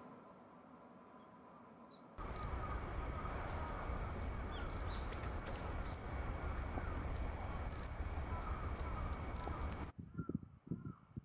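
Wild birds giving short, high calls over a steady low rumble of outdoor background noise. The louder stretch starts suddenly about two seconds in and stops suddenly near the end.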